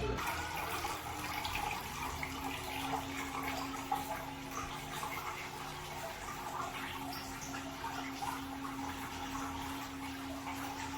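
Bubble wall water fountain running, its air bubbles rising through the water and giving a steady fine bubbling and gurgling. A steady low hum comes in about two seconds in.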